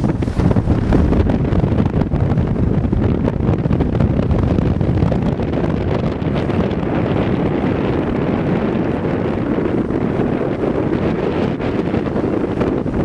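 Strong wind buffeting the microphone, a loud, steady rushing rumble.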